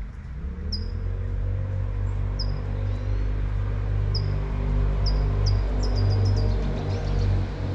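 A motor vehicle's engine running close by, a low rumble that rises in pitch in the first second and then holds steady, over the even hiss of light rain. A bird chirps every second or two, then in a quick run of calls near the end.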